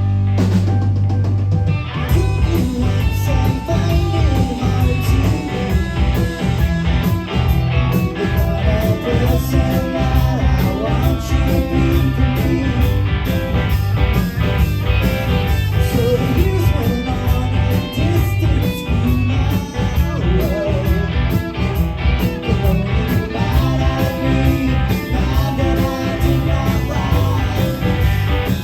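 Live rock band playing: electric guitar and bass over drums, the drums coming in about two seconds in after a held low note.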